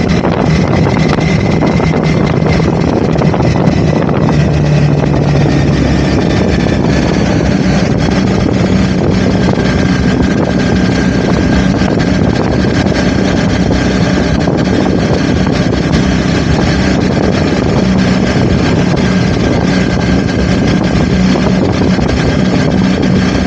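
Honda CBR motorcycle engine running steadily while riding, under heavy wind rushing over the camera microphone; the engine note rises a little about seven seconds in.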